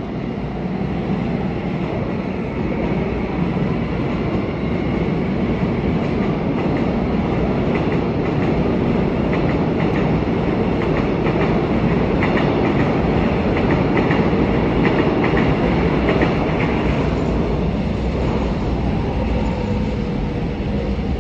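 Seoul Subway Line 1 electric commuter trains passing along the tracks, a steady loud rumble of wheels on rail. In the middle stretch there is a rapid clickety-clack of wheels over rail joints.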